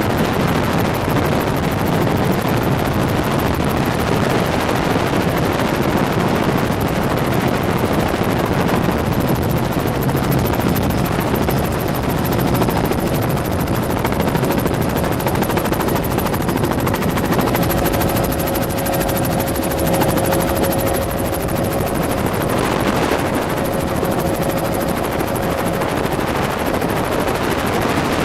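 Helicopter in flight, heard from aboard: the rotor and engine run steadily as a loud, even noise with a rapid fine pulsing. A faint steady whine comes in during the second half.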